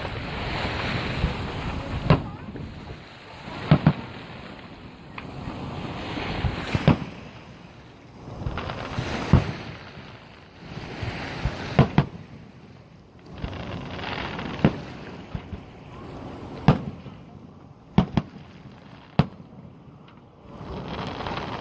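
Distant fireworks shells bursting across the water: about a dozen sharp bangs, irregular and a second or more apart, some in quick pairs. Under them, rushing wind and water noise swells and fades every couple of seconds.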